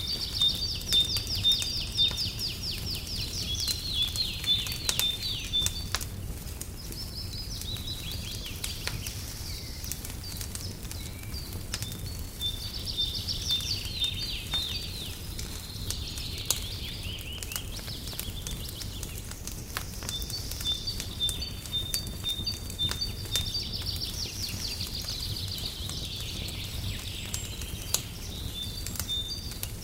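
Songbirds singing in repeated trills and chirping phrases, over the scattered pops and crackles of a wood fire and a steady low rumble.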